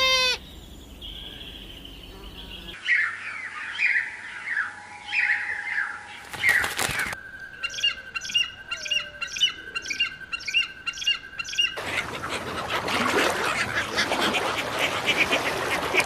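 A run of different bird sounds cut one after another: a short harsh squawk at the start, a series of descending calls, a brief burst of noise, quick repeated notes over a steady high tone, and finally a dense wash of overlapping calls and noise.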